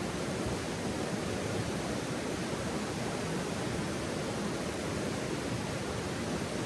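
Steady, even rushing of flowing stream water, with no crackles or pops standing out.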